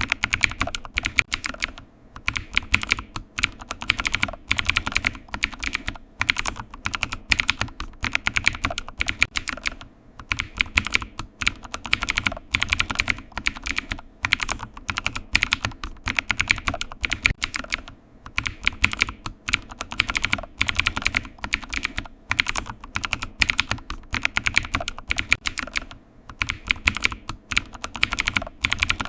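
Typing on a computer keyboard: fast, irregular key clicks in runs broken by short pauses.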